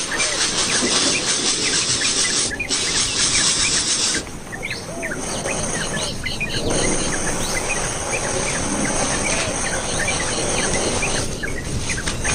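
Many short, high bird chirps scattered over a steady high buzz of insects. The buzz drops out briefly a few times.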